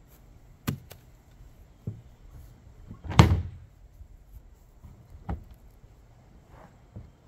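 Knocks and clunks of a plastic deck box being handled: a few sharp knocks, with one louder thud about three seconds in.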